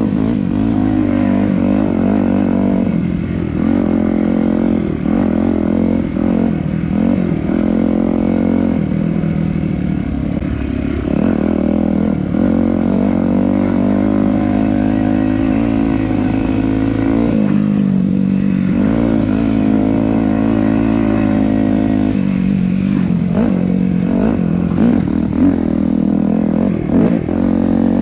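Yamaha YZ250F four-stroke single-cylinder dirt bike engine running under way, its pitch rising and falling as the throttle opens and closes. A few sharp knocks come in the second half.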